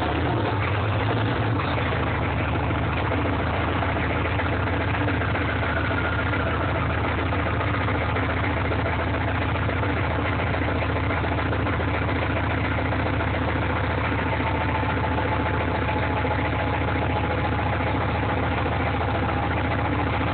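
GM 6.5 L V8 turbo-diesel engine idling steadily after a cold start at 10 °F.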